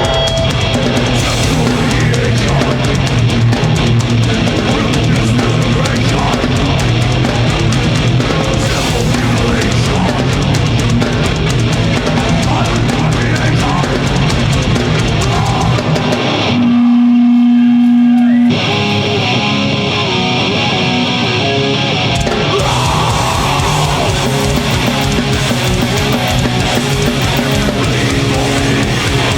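Live heavy metal band playing: distorted electric guitars, bass and drum kit. About 17 seconds in the band drops out for a single loud held note lasting about two seconds, then guitars come back without the low end and the full band kicks in again a few seconds later.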